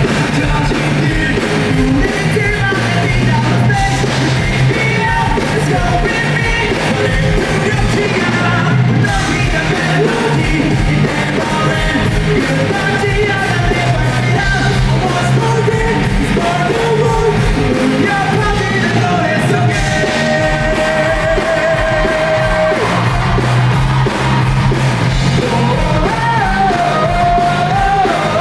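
Live rock band playing with a male lead vocalist singing over drums and bass. About twenty seconds in, one note is held steady for a few seconds.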